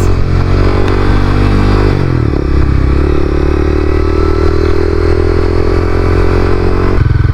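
Honda CBR300R's single-cylinder engine running while the bike is ridden; its note drops about two seconds in, holds steady, then picks up again near the end. The rider thinks the bike doesn't sound right, which is why it is going to the shop.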